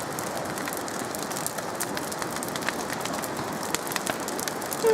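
Campfire crackling and popping over a steady hiss. Right at the end comes one short, falling pitched sound, louder than the rest.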